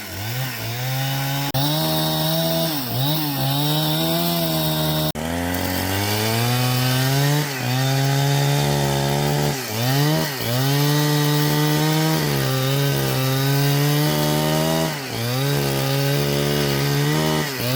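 Two-stroke chainsaw running at high revs while cutting wood. Its pitch drops and picks up again many times as the chain bites into the log and frees.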